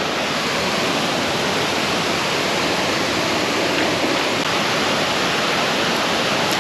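Fast creek water rushing steadily.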